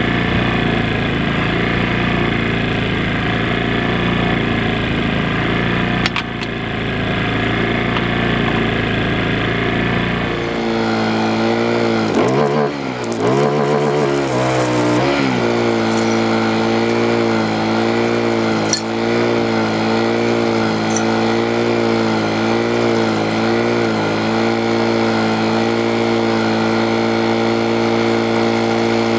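Portable generator engine running steadily. About ten seconds in the sound changes: a dense noisy layer drops away, the engine note comes forward and wavers in pitch for a few seconds, then holds steady.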